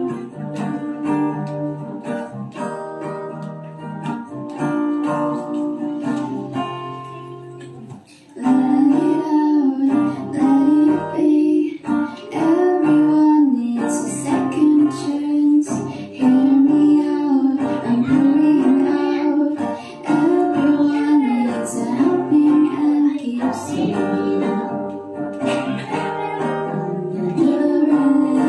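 Live song: an acoustic guitar strummed alone, then joined about eight seconds in by a voice singing the melody over the chords.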